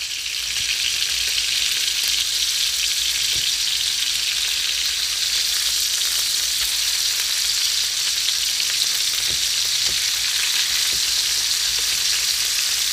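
Tuna steaks searing in hot butter and olive oil in a frying pan, a steady sizzle while they are turned over with tongs, with a few faint clicks.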